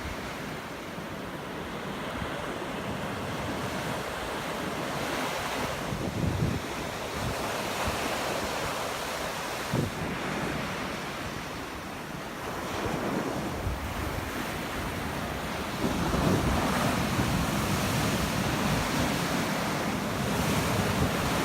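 Ocean surf washing in and breaking on a beach, with wind buffeting the microphone. The surging noise swells and ebbs and grows louder about three-quarters of the way through.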